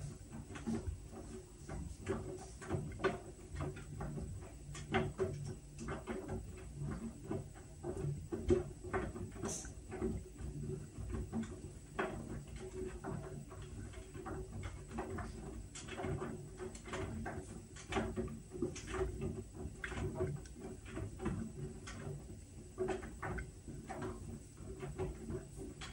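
Whirlpool washing machine running its Steam Refresh cycle: a steady low motor hum with irregular light clicks and taps as the drum turns.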